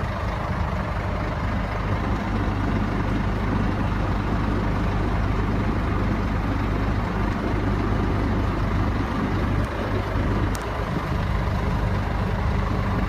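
Scania 114 truck's diesel engine idling steadily.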